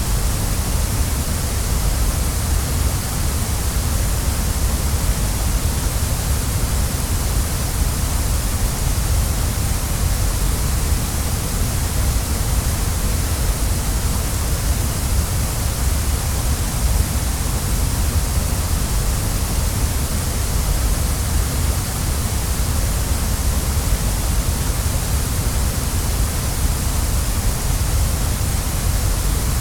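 Waterfall: a steady, unbroken rush of falling water, deep rumble underneath and bright hiss on top.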